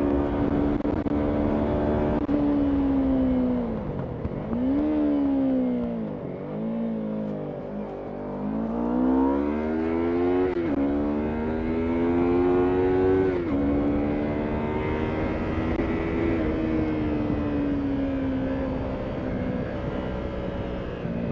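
Yamaha MT-03 motorcycle engine heard on board: running steadily, then the revs fall away about four seconds in as it slows, with a few brief blips. It then pulls up through the gears with two upshifts and settles into steady running.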